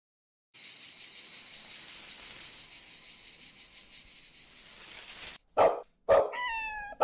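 A steady, high-pitched chirring of night insects runs for about five seconds. Then a dog barks three times in quick succession, and the second bark trails off in a falling tone.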